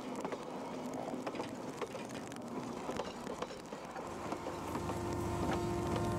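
Narrow-gauge freight train rolling past close by: the wheels clatter and click irregularly over the rails. About four seconds in, a steady diesel locomotive engine drone comes up under the clatter as the engine draws near.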